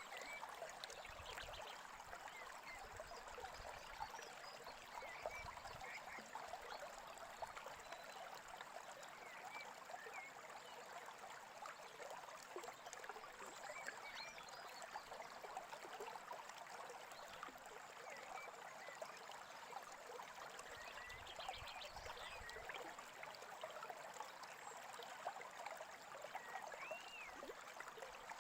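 Small stream babbling steadily, with short bird chirps scattered here and there.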